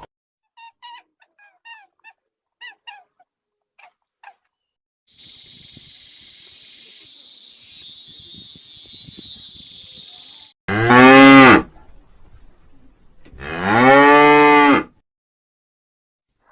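A cow mooing twice, loud and about a second and a half each, the second moo about two seconds after the first. Before the moos come a few seconds of short, quick chirps and then a steady high hiss.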